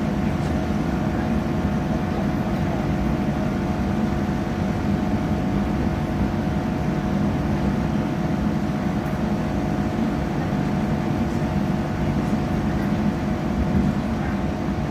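Steady running noise of a passenger train heard from inside the carriage: a constant low rumble with an even hum from its engine.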